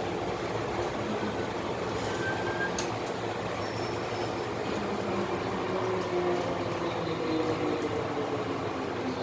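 Hong Kong MTR M-Train running, heard from inside the passenger car: a steady rumble of wheels and running gear, with a motor whine that slides down in pitch in the second half.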